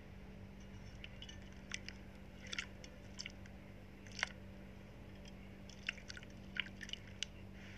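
Slime worked by hand, giving faint, scattered sticky clicks and small pops, about a dozen at irregular intervals.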